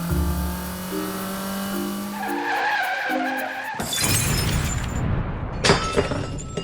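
Cartoon sound effects over background music: a car's tyres skidding with a wavering squeal, then a crash with glass shattering, with a sharp strike about two seconds into the crash.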